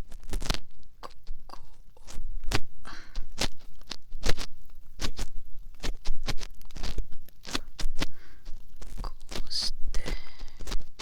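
Ear cleaning on a binaural dummy-head microphone: an ear pick scratching and scraping close inside the ear, with irregular crunchy clicks.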